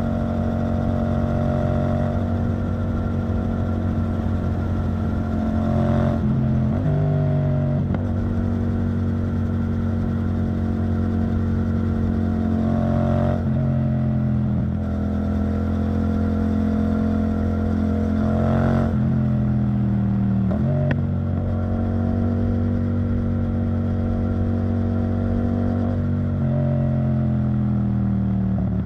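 Yamaha MT-07's 689 cc parallel-twin engine running through an Arrow Thunder titanium exhaust while riding. The engine note holds steady for stretches, with a few brief dips and changes in pitch.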